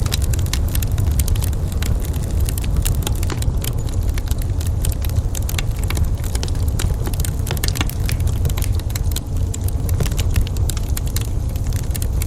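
Wood fire crackling, with many quick sharp snaps and pops over a steady low rumble.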